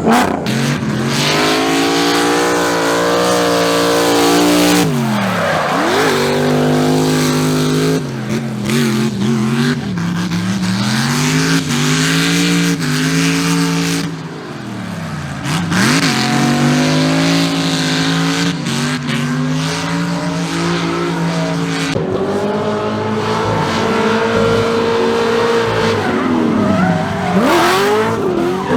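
Car engine revving, its pitch climbing and falling several times over a few seconds each, with tyres squealing.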